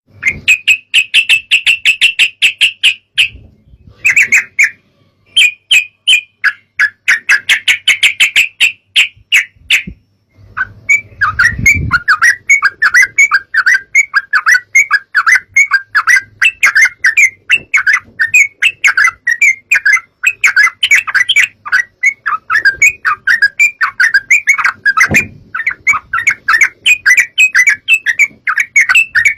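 Yellow-vented bulbul song: fast, chattering runs of short bright notes, with brief breaks about three and ten seconds in. A low rumble comes in about eleven seconds in.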